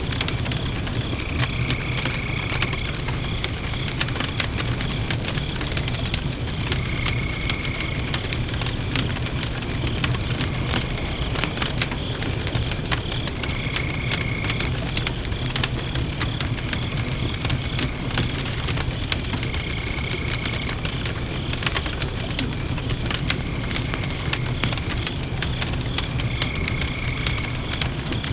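Wood fire burning in a Tokyo Crafts Macrite fire stand, crackling and popping continuously over a steady low rumble. A short high note sounds about every six seconds.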